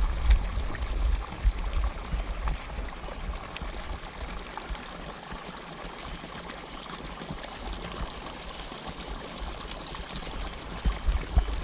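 Steady splashing and trickling of runoff water pouring into a pond from an inflow after rain, with a low rumble in the first second or so and again near the end.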